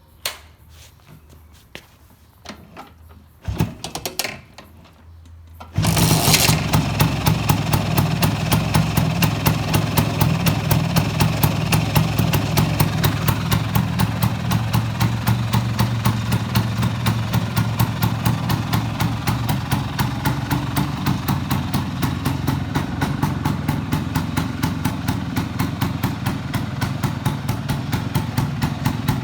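Vespa PX150 two-stroke single-cylinder engine starting about six seconds in after a few clicks and a scuffing noise, then idling steadily with an even exhaust pulse.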